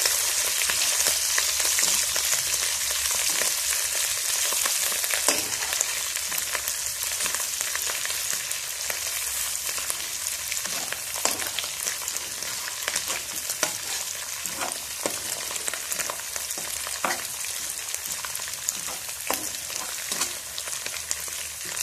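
Pounded dried chilli and onion paste sizzling as it fries in oil in a non-stick wok, while a spatula stirs it with scattered scrapes and taps against the pan. This is the sautéing (tumis) stage of a sambal, and the sizzle slowly grows quieter.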